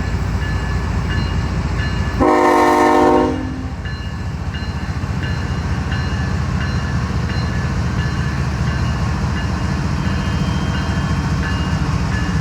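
Freight train's diesel locomotives passing with a steady low engine rumble; about two seconds in the locomotive air horn sounds one short blast of about a second.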